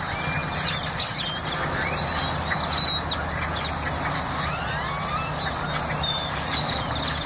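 Many birds in a tree chirping and calling together without a break, with quick rising and falling whistles, over a steady low hum.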